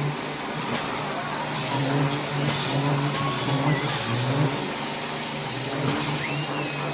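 Semi-truck diesel engines running at a drag strip, a steady low rumble with its pitch wavering, under a constant high-pitched whine and a few sharp clicks.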